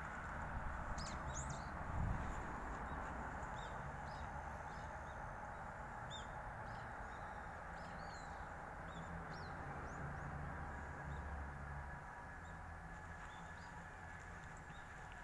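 Small birds chirping in short, scattered calls over a steady outdoor background hum, with a low thump about two seconds in.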